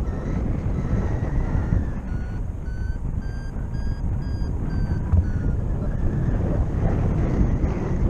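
Paraglider's variometer beeping about twice a second, its pitch rising and then falling before the beeps stop about five seconds in, signalling weak lift. Wind noise on the microphone is steady throughout.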